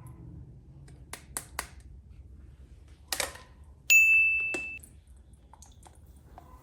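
A few light clicks and a short scrape, like plastic being handled, then a bright single ding that rings and fades over about a second.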